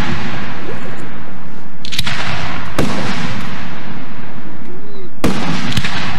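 Aerial firework shells bursting overhead: four loud booms, a pair about two seconds in and another pair near the end, each trailing off over a second or so.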